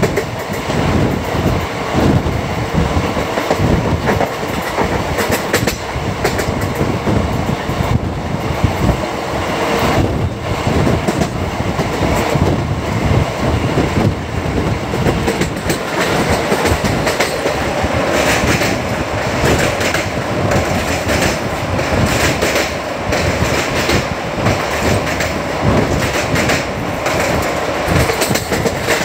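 Andaman Express passenger train running at speed, heard from on board: a steady rumble of wheels on rail with dense clicking and clatter over the track.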